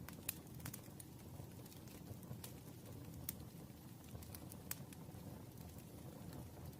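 Campfire crackling: irregular sharp pops and snaps over a soft, steady low background of burning.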